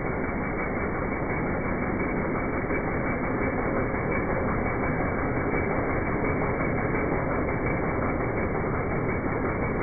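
Mitsubishi 4B12 2.4-litre inline-four petrol engine running steadily, with no change in speed.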